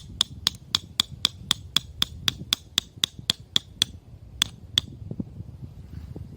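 A tent peg being hammered into the ground: about fifteen quick, ringing metal strikes at roughly four a second, then two more after a short pause.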